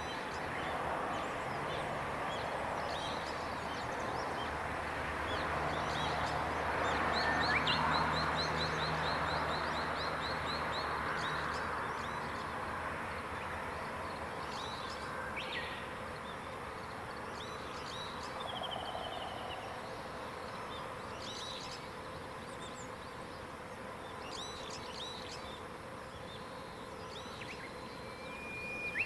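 Wild songbirds singing and calling in mountain woodland: scattered high chirps and whistles, with one rapid trill of repeated notes about a quarter of the way in. Under them runs a steady rushing background that swells in the first half, and a faint low drone that fades out about halfway through.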